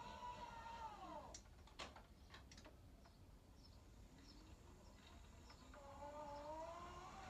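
Stannah 600 stairlift's electric motor whining, its pitch falling as it winds down and stops about a second in. A few sharp clicks follow, and near the end the motor starts again with a rising whine.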